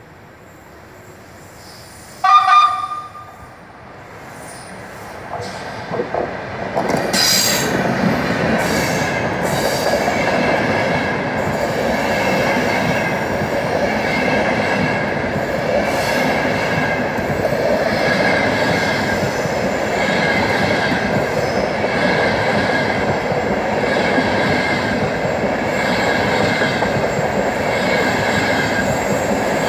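ETR500 trainset in Mercitalia Fast livery giving one short horn blast about two seconds in. Its noise then swells as it arrives and runs past close by: a steady loud rush of wheels on rail with a high whine, brightening about every two seconds as the cars go by.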